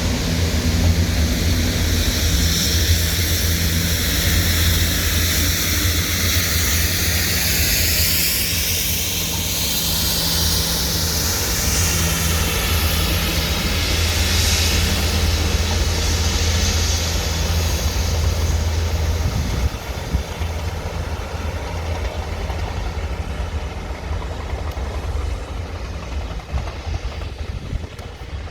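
A train's engine running with a steady low hum and a hiss, the high part of the sound sweeping as the train moves past; it becomes quieter about two-thirds of the way through.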